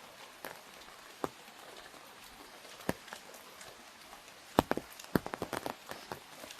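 Raindrops hitting an umbrella: a soft steady patter with scattered sharp taps, a couple at first and then a quick run of them about two-thirds of the way through.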